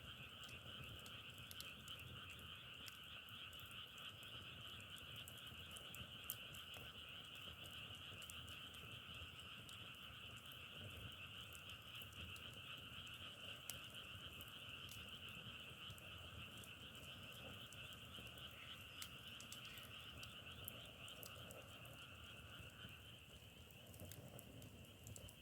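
Faint, steady chorus of many frogs calling together in two overlapping pitches, with a few scattered sharp ticks; the lower-pitched part of the chorus drops out near the end.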